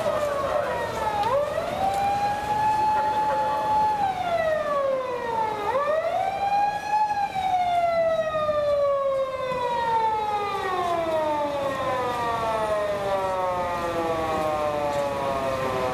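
Japanese police patrol car siren wailing: it rises to a held high note, falls, rises again, then slides down slowly over many seconds as it winds down.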